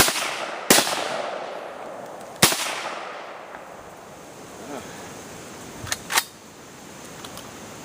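Gunshots: three loud shots in the first two and a half seconds, each followed by a long fading echo, then two quicker, shorter shots near the end.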